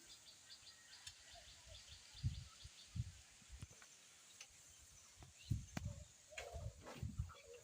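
Quiet outdoor ambience: faint, rapid bird chirping in the first three seconds, with a few soft low thuds scattered through. No engine is running.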